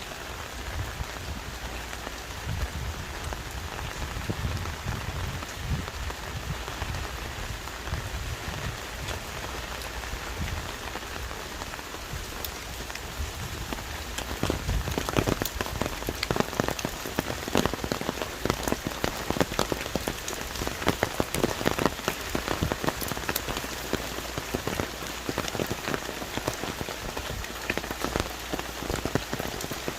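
Heavy rain falling on forest trees: a steady hiss of rain with many individual drop impacts, which grow denser and louder about halfway through.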